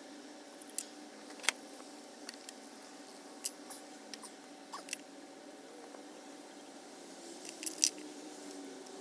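Scattered sharp clicks and taps of hand tools and metal engine parts being handled while the engine is taken apart, a few seconds apart and not rhythmic. The loudest comes near the end, over a faint steady hum.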